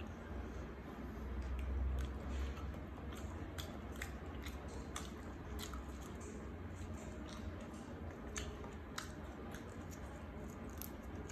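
Close-up chewing of a grilled egg: wet mouth sounds with many small sharp clicks and smacks scattered throughout.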